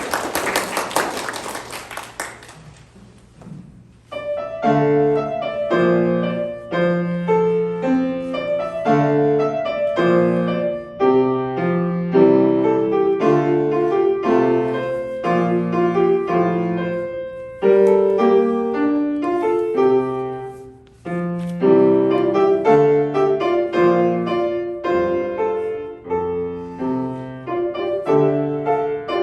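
Solo piano playing a recital piece, steady melody notes over chords with a couple of brief pauses. It starts about four seconds in, after a rushing noise fades away.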